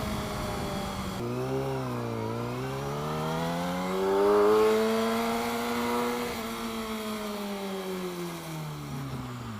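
A 2007 Yamaha R6's inline-four engine accelerating, its pitch climbing steadily for several seconds to a peak about five seconds in, then falling away as the throttle is eased off.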